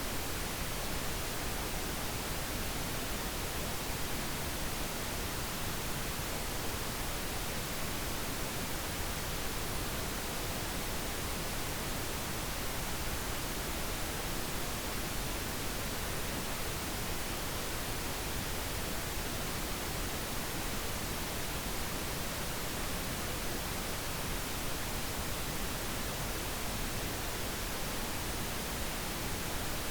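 Steady, unbroken pink noise: an even hiss across all pitches, played as a sleep sound.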